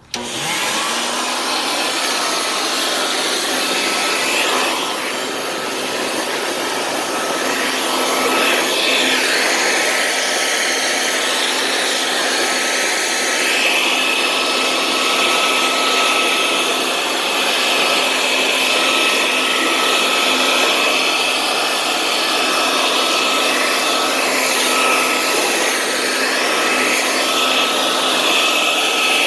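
An electric blower or vacuum motor switches on abruptly and runs steadily, a high whine over rushing air.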